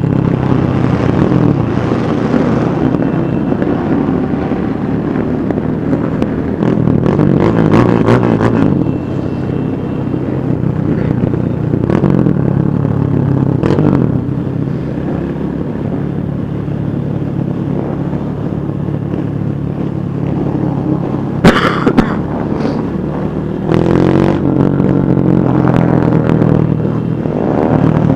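Many motorcycle engines running together, revving up and down as bikes ride past. A single sharp crack stands out about three-quarters of the way through.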